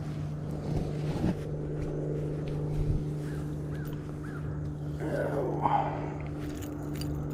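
A steady low engine hum, even in pitch, with faint soft sounds over it and a brief faint voice-like sound about five seconds in.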